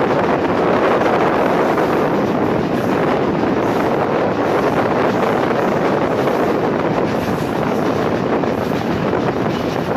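Steady rushing noise of a fast-moving passenger train, wind buffeting the microphone over the running noise of the wheels on the rails.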